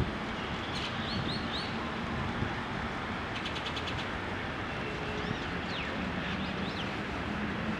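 Small birds calling over a steady low background rumble. Three quick, arched chirps come about a second in, a fast rattling trill about halfway through, and a few more sharp chirps and falling notes near the end.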